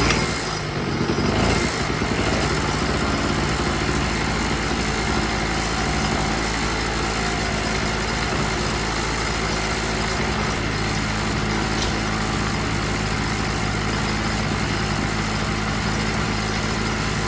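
Small engine of a 2 hp Chicago Electric generator running steadily just after starting, staying running now that its clogged carburetor jet has been cleaned.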